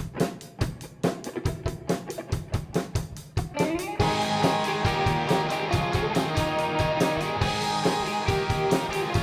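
Indie rock band playing: a drum kit alone keeps a quick, even beat, then electric guitars and bass come in together about four seconds in and carry on as a full band.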